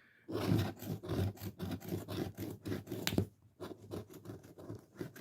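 Scratch-off lottery ticket being scratched: quick repeated scraping strokes across the card's coating, pausing briefly a little past halfway before starting again.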